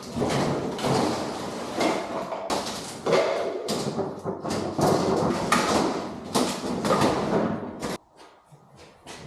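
Irregular thuds, bangs and scraping of junk being handled and tossed, with a short lull near the end.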